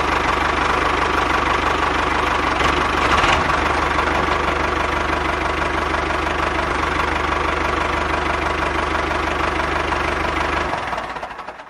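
Engine running steadily with an even low pulsing, then fading out near the end.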